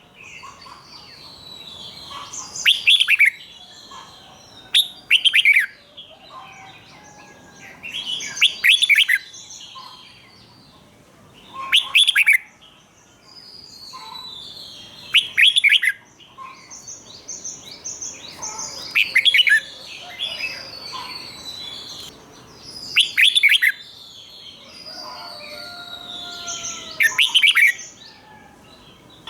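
Red-whiskered bulbul singing loud, short whistled phrases, repeated about every three to four seconds, with softer chirping between them.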